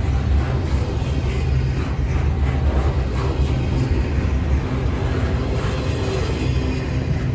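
Double-stack intermodal freight train's cars rolling past close by: a loud, steady low rumble of steel wheels on rail with faint scattered clicks.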